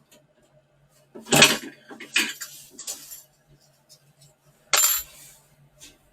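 Metallic clicks and clatters of long nose pliers and metal clips being worked out of a boiler's condensate pipe, with two louder clatters about a second and a half in and near the five-second mark, over a faint steady hum.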